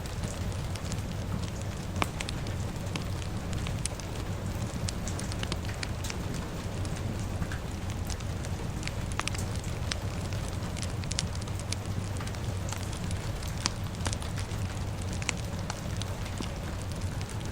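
Crackling fire with steady rain: a constant low rumble and hiss, broken by scattered sharp crackles and pops, one louder pop about two seconds in.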